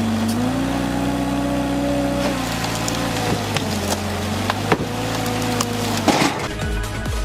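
A wood-processing machine's engine running steadily while wood cracks and splinters under it. There are sharp snaps about three seconds in, near five seconds and just after six seconds.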